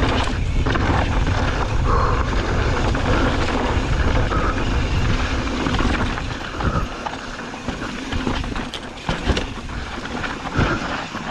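Mountain bike riding down a rocky dirt trail: a steady rumble of wind and rolling noise that drops about six seconds in to quieter riding broken by sharp knocks and rattles of the bike over rough ground.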